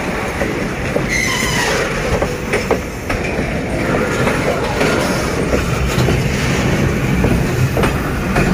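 Loaded freight wagons rolling slowly past, their steel wheels rumbling and clacking over the rails. A brief faint wheel squeal comes about a second in.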